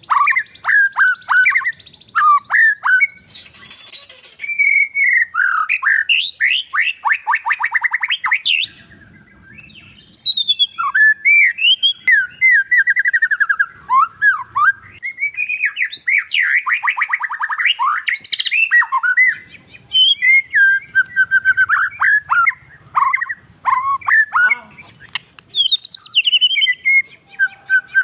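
Oriental magpie-robin (kacer) singing non-stop in full song, the sign of a bird in top singing form (gacor): a rapid, varied run of clear whistles, fast rattling trills and short chattering phrases with only brief pauses. A steady high hiss sits faintly underneath.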